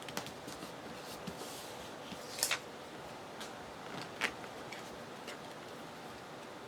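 Quiet handling of paper and craft pieces on a desk: a few short, soft crisp rustles and taps. The clearest comes about two and a half seconds in and another just after four seconds.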